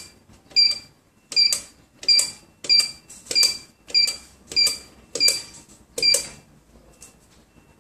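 Button beeps of a phone top-up vending kiosk as a phone number is keyed in: about nine short, high beeps, each with a click, at a steady pace of one every 0.6 to 0.8 s. They stop a little after six seconds in.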